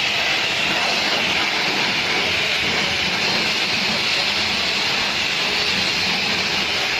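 High-pressure washer spraying, a steady hiss.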